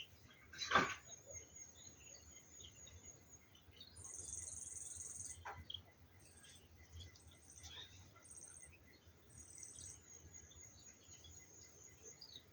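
Early-morning countryside chorus of scattered bird chirps and high-pitched insect trills, the longest trill lasting about a second and a half near the middle. A short sharp sound about a second in stands out above the rest.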